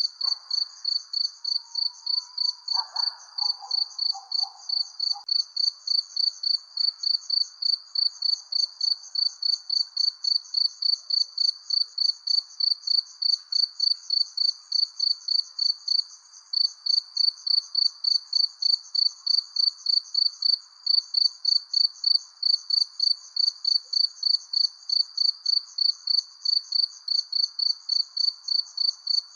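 Cricket chirping at night in a steady, even rhythm of about three high chirps a second, with a short break a little past the middle. A faint lower background hiss lies beneath, with a brief stronger patch a few seconds in.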